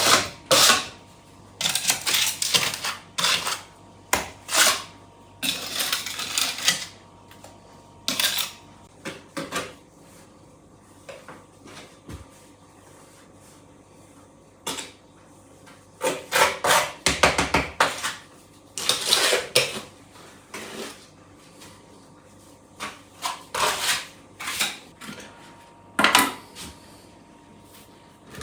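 Irregular clinks, knocks and scrapes of hard objects being handled, coming in clusters with short pauses between.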